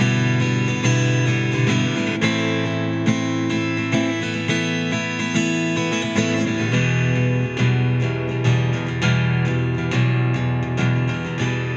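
Instrumental guitar music played on a Dean Exhibition thin-body quilted ash electro-acoustic guitar, with a full, steady low end and the bass notes moving to a new chord about seven seconds in.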